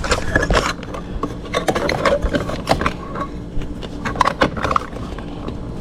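Irregular clicks, taps and scrapes of a screwdriver against metal parts while a small screw is worked into place in a dishwasher's wiring box, over a steady low hum.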